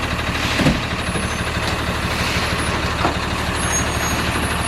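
Heavy diesel truck engine running with a steady, pulsing low rumble, with a brief louder burst about half a second in.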